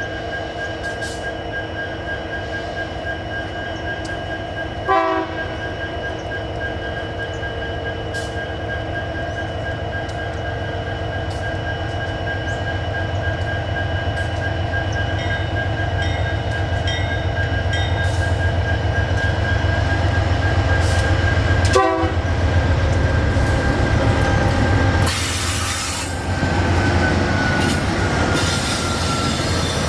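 MRS diesel freight train running by, its low rumble growing louder over the second half, with a steady high-pitched wheel squeal that glides slightly lower near the end. Two brief sharp sounds come about 5 s in and again around 22 s, and the horn sounds briefly.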